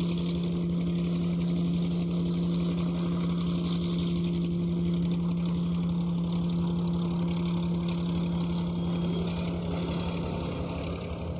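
First-generation diesel locomotive's engine running at a steady speed, a constant drone that fades near the end.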